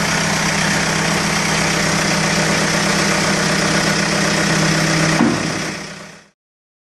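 Diesel engine of a BULL backhoe loader running steadily at idle, with a brief change in its note about five seconds in, then fading away to silence about six seconds in.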